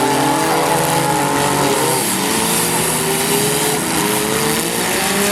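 Several derby trucks' engines running at once, revving up and down at different pitches.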